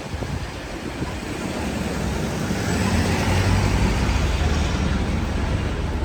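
City street traffic: a motor vehicle's low engine rumble swells as it passes, loudest around three to five seconds in.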